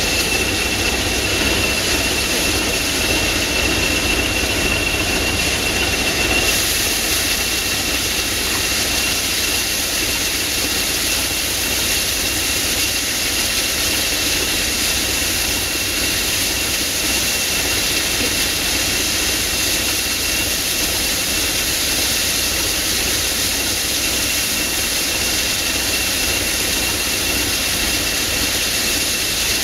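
A train standing at a signal, with a steam tank engine at the front and a Class 20 diesel at the rear, sounds as a steady hiss over a low engine rumble with a thin, steady high whine. A higher hiss joins about six seconds in.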